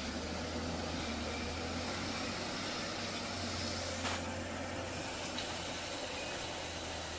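A machine's engine running steadily with a constant low hum and a hiss over it. There is a single short click about four seconds in.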